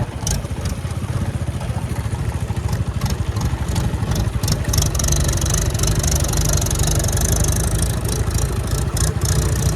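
A diesel engine of heavy farm or earthmoving machinery runs steadily close by, with a dense clattering beat.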